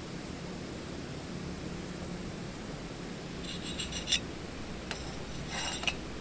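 Two short rasping scrapes, about a second apart, each ending in a sharp click, over a steady low hum.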